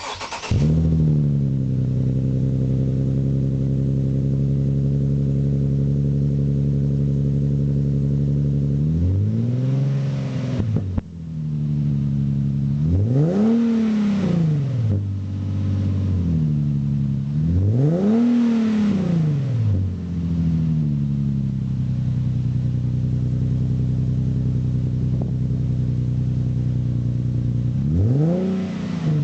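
Nissan 370Z's 3.7-litre V6 starting up with a short flare, settling into a steady idle through the exhaust, then revved and released four times, each rev rising and falling smoothly.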